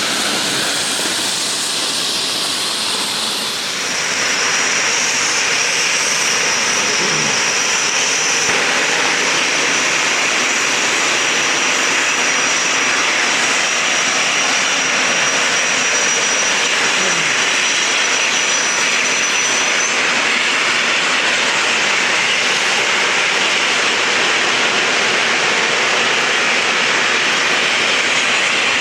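Geared steam locomotive giving off a loud, steady rush of steam with no distinct chuffs, getting louder about four seconds in. A thin high whine runs over it from then until about two-thirds of the way through.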